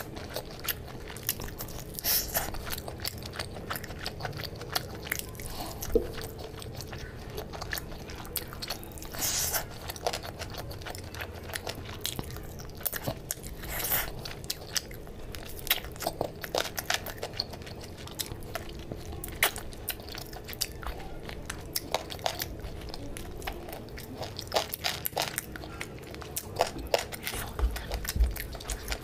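Close-miked eating: biting and chewing a piece of curried chicken on the bone, with many short, sharp wet clicks and crunches of the mouth throughout.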